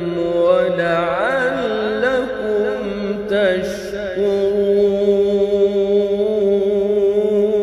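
A male reciter's voice in melodic, unaccompanied Quran recitation (tajwid): an ornamented run of wavering, gliding pitch over the first couple of seconds, then one long held note.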